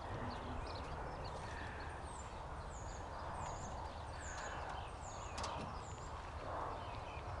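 A bird calling a run of about seven short, high, down-slurred chirps, roughly two a second, over a low steady rumble, with one sharp knock about five seconds in.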